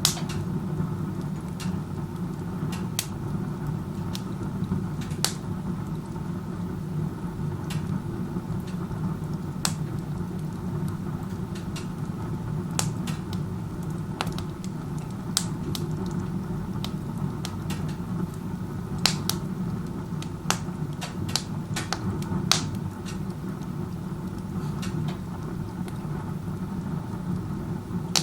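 Wood stove burning with its door open, the chimney drawing hard: a steady low rumble of air being pulled through the fire, with irregular sharp pops and crackles from the burning wood. The strong draft means poor combustion efficiency.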